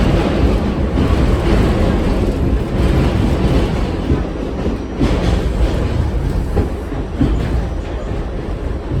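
R68 subway car running along the track: a steady rumble of wheels and running gear, with clatter as the wheels pass over rail joints.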